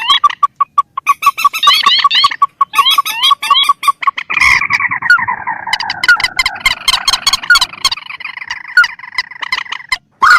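Recorded calls of marsh birds of the rail family (swamphens and crakes), played as a trapper's lure call. Rapid ticking notes mixed with short rising chirps, then about four seconds in a harsh call that slides down in pitch, followed by steady repeated notes.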